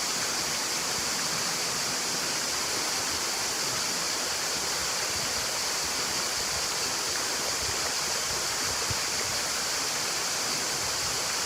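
Water of a waterfall and mountain stream rushing with a steady, even hiss.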